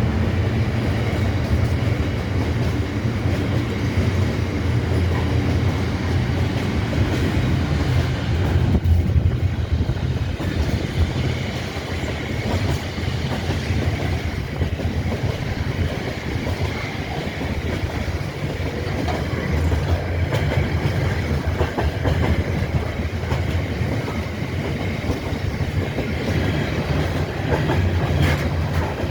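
A train running past on the rails, with a steady low rumble and wheels clacking over rail joints.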